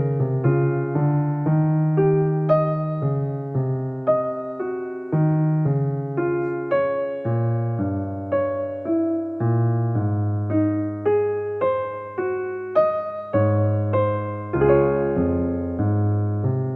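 Background piano music: single notes and chords struck a few times a second, each ringing and fading.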